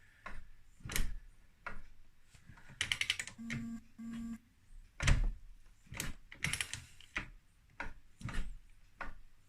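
Irregular sharp clicks and knocks, roughly one a second, with two brief low buzzes just before the middle.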